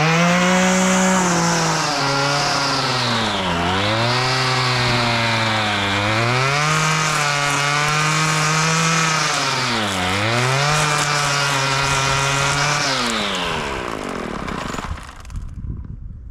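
Small petrol engine of a grass cutter running at high revs. Its pitch sags sharply three times as it bogs down under load in the grass and recovers each time, then the engine winds down near the end.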